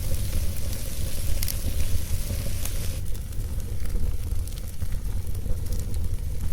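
Wood fire burning, with a handful of sharp crackles and pops scattered over a steady low rumble.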